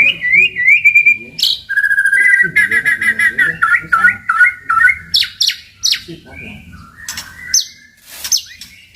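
White-rumped shama (murai batu) singing a varied song: rising slurred whistles, then a rapid run of repeated notes about two seconds in, then sharp clipped notes.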